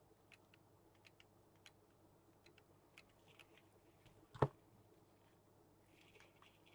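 Light clicks and taps of craft materials being handled on a work table, with one louder knock about four and a half seconds in.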